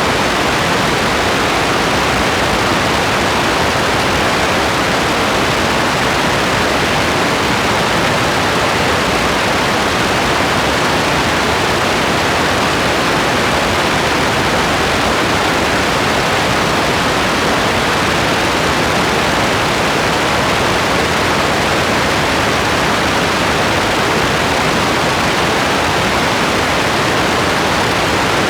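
Rain falling steadily: a dense, even hiss with no single drops, thunder or other events standing out.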